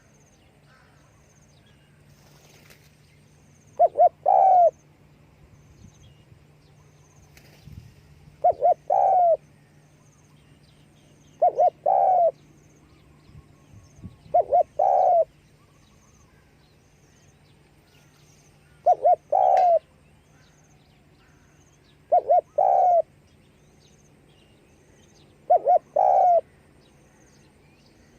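Spotted dove cooing: seven phrases, each two short notes followed by a longer coo, repeating every three to four seconds. A faint steady low hum runs underneath.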